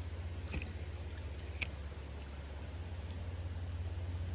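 Insects chirring in a steady high-pitched drone over a low steady rumble, with one sharp click about a second and a half in.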